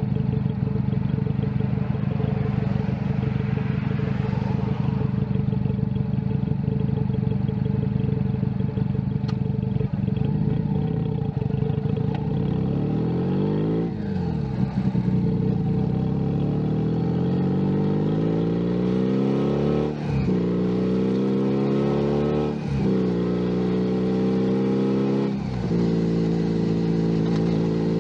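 Junak M11 Cafe's 125 cc single-cylinder engine heard from the bike: a steady cruise, then the revs fall as it slows. It then pulls away, the revs climbing and dropping sharply three times as it shifts up through the gears, and settles into a steady cruise near the end.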